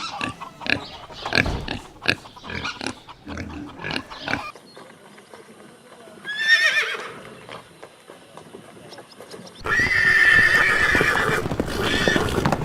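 Horse whinnying: one pitched call that rises and falls about six seconds in, then a louder, longer whinny over noisy surroundings from about ten seconds in. Before that comes a run of short sharp clicks and knocks, and the sound changes abruptly between these parts.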